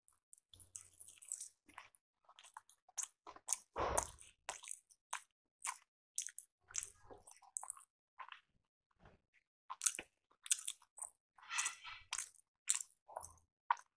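A person biting and chewing rice appe (paniyaram): a string of irregular short wet smacks and clicks of mouth sounds, the loudest about four seconds in.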